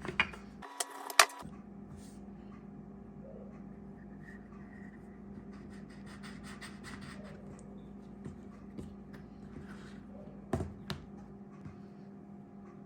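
Hands working puff pastry and flour on a kitchen worktop: soft rubbing and scratching, with a few sharp knocks in the first second or so and a couple more near the end, over a steady low hum.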